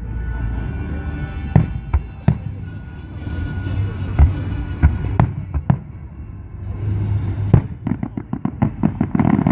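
Aerial firework shells bursting overhead: a string of sharp booms spaced a second or so apart, then a quick run of many small crackling pops near the end.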